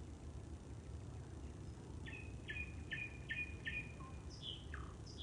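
A songbird singing: a run of five short, identical notes about two and a half per second, followed near the end by a few quick notes falling steeply in pitch. A steady low background rumble runs underneath.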